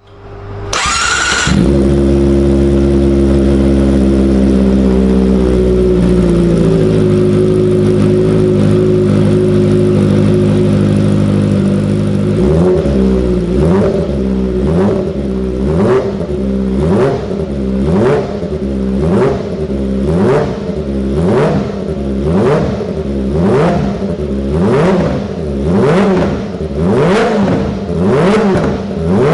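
Kawasaki Ninja ZX-25R's inline-four engine through an aftermarket exhaust, held at a steady speed for about ten seconds and then revved over and over, about one rev a second, its pitch climbing and falling each time. These throttle blips run between about 8,000 and 10,000 rpm.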